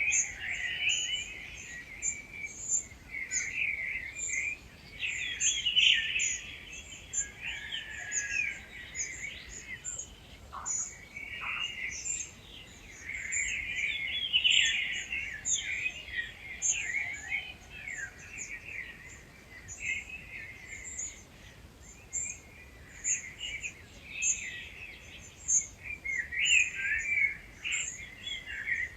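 Dawn chorus: several wild birds singing at once in overlapping, warbling phrases that swell and fade every few seconds. Over them runs an unbroken series of short, thin, very high notes repeating a few times a second.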